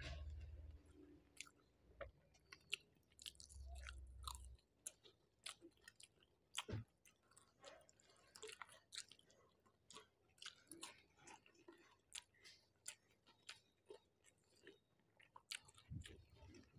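Faint close-up mouth sounds of someone chewing a mouthful of rice and curry: scattered short wet smacks and clicks.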